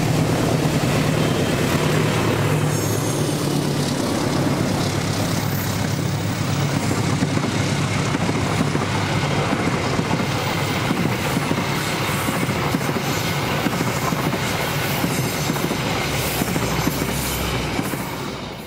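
Diesel-hauled passenger train passing close by. The locomotive's engine hums at first, then the carriages go by with a steady rumble and clickety-clack of wheels over the rail joints, fading out at the very end.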